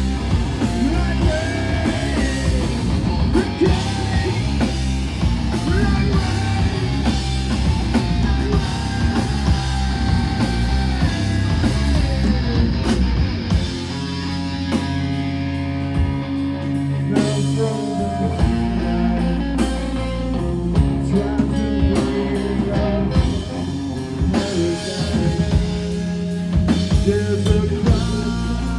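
Live rock band playing a song: electric guitars, bass and a drum kit at full volume. About halfway through, the arrangement shifts to a steadier bass-and-drum groove with held guitar notes.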